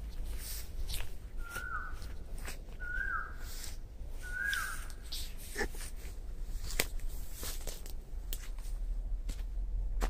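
A bird calling three times, short notes that drop in pitch at the end, about a second and a half apart. Around them are scattered clicks and rustles of footsteps moving through the undergrowth.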